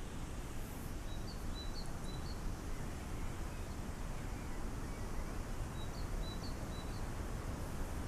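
Steady, even rushing background noise, with a small bird giving a few short high chirps in two brief clusters, about a second in and again near the end.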